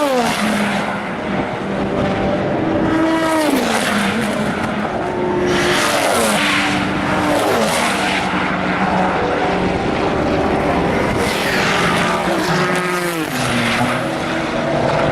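Several endurance racing cars passing at speed one after another, each engine note dropping in pitch as the car goes by, with a rush of noise on every pass.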